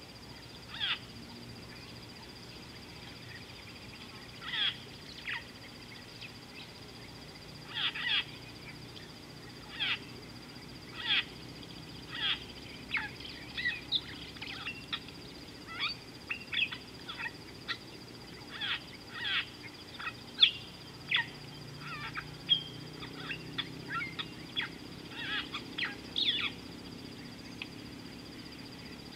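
Birds calling: many short, sharp calls in uneven runs, coming more often after the first several seconds, over a steady faint high-pitched whine.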